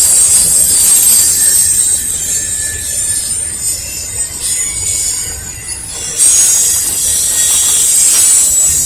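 Norfolk Southern intermodal freight train rolling past, its steel wheels squealing high on the rails over a low rumble. The squeal eases about four seconds in and comes back strongly around six seconds.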